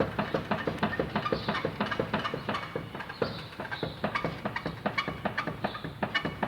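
Front wheel of a Ford Courier pickup rocked by hand on a lift, clunking and knocking rapidly, several knocks a second. The knocks come from excessive play in the front suspension on this side, which the mechanic calls horrible and even dangerous.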